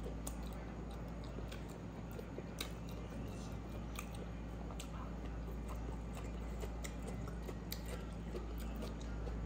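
Chewing and mouth sounds of eating by hand, with scattered light clicks and smacks as rice grains are picked off a wooden plate, over a steady low hum.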